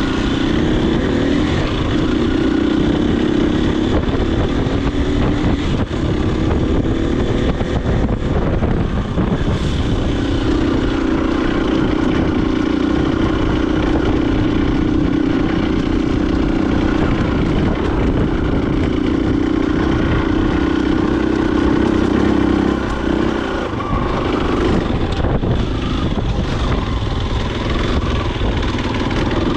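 Husqvarna FE250 dirt bike's single-cylinder four-stroke engine running steadily while riding, easing off briefly about three-quarters of the way through before picking up again.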